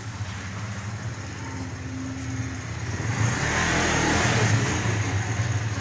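A motor running with a steady low hum, joined by a rising rush of noise that builds about three seconds in and eases off near the end.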